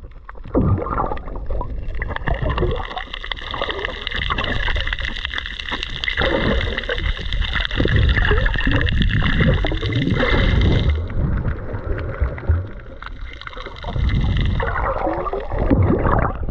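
Water sloshing and gurgling around a snorkeler's camera as it moves through the water. A steady high whine sits over it, stops suddenly about eleven seconds in, and returns briefly near the end.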